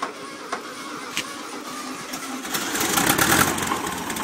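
1972 VW Beetle's air-cooled flat-four engine running rough with uneven knocks, getting louder and fuller about halfway through. It sounds really bad, a sign of a fault the owner cannot name.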